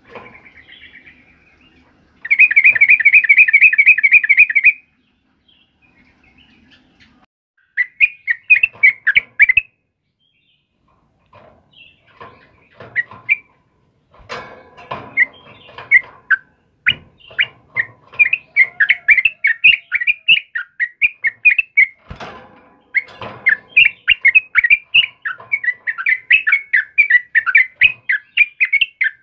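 Sooty-headed bulbul (trucukan) singing. A loud, fast, even trill comes about two seconds in and lasts a couple of seconds. Short bursts of quick chattering notes follow, becoming nearly continuous through the second half.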